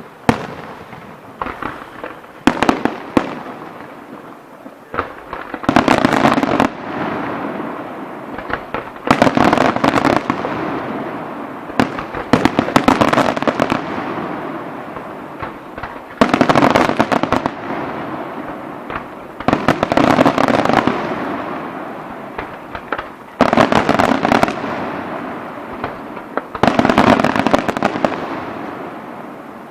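Fireworks display: a run of loud bursts, each a sharp bang followed by a long crackling tail that fades away, coming every three to four seconds.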